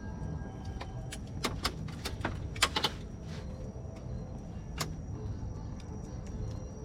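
Wood fire crackling: a flurry of sharp pops between about one and three seconds in and another single pop near five seconds, over a steady low rumble of the burning fire. A faint steady high tone runs underneath.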